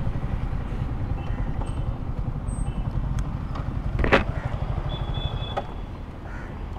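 Motorcycle engine idling with a steady low rumble, with a single short knock about four seconds in.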